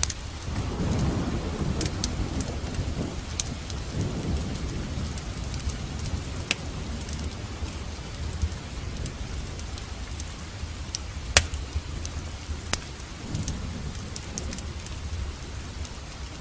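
Steady rain with a rolling rumble of thunder over the first few seconds and a fainter rumble near the end. Scattered sharp crackles from a fireplace cut through it now and then.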